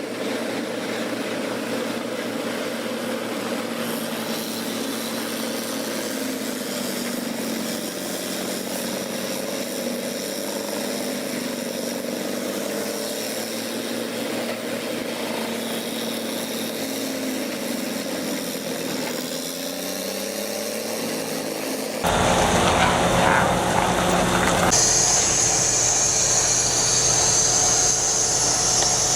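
A heavy wood chipper's engine running at a steady speed, its pitch drifting slightly. About 22 seconds in it gives way abruptly to a louder, rougher grinding noise, with a loud high hiss added a few seconds later, as wood is fed through the chipper.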